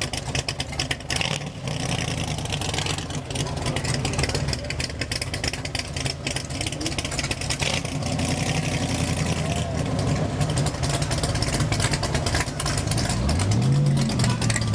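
Car engine running at a fast, pulsing idle, then revved near the end, its pitch climbing quickly.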